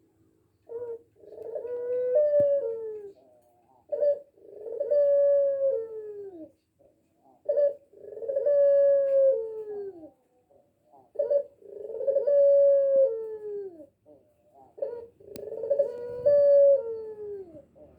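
Puter pelung, a domestic turtle dove kept for its long song, cooing five times about three and a half seconds apart: each phrase is a short note followed by a long, drawn-out coo that bends and falls in pitch at the end. The bird is just learning these ornamental bends of its voice.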